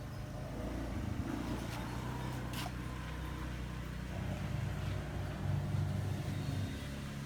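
Washing machine motor running under test, a low hum that swells and shifts about four to seven seconds in, with a single click about two and a half seconds in.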